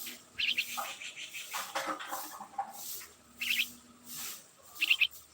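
Small birds chirping at a nest: short bursts of quick, high chirps, three times, with softer rustling noise between them.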